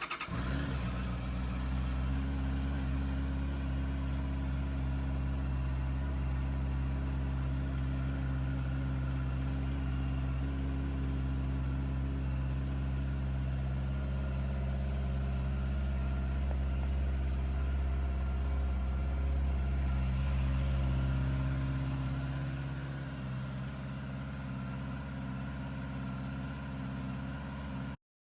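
Honda CBR650R's inline-four engine catching and then idling steadily. Late on the idle settles a little lower, and the sound cuts off suddenly near the end.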